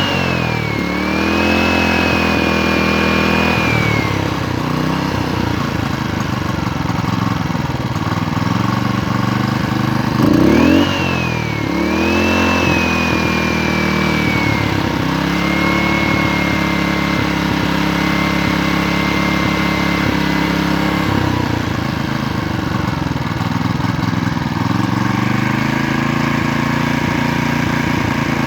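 Koshin SEM-50W engine pump's small engine running steadily. The throttle is blipped twice, once at the start and again about ten seconds in, so the engine speed jumps up and falls back each time. Its speed dips slightly about two-thirds of the way through and picks up again near the end.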